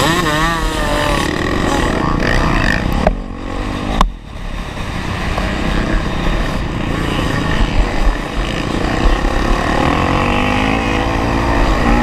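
Honda CRF450R's single-cylinder four-stroke engine revving up and down under load while riding a motocross track. About three seconds in the throttle drops off briefly, a sharp knock sounds at about four seconds, and the engine then pulls steadily again.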